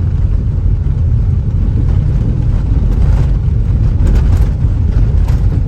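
Steady low rumble of a car on the move, engine and tyre road noise heard from inside the cabin.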